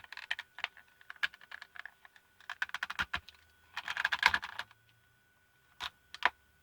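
Plastic case of a pico projector being pried at with hand tools: a run of small clicks, creaks and scraping, heaviest about three and four seconds in, then two sharp clicks near the end.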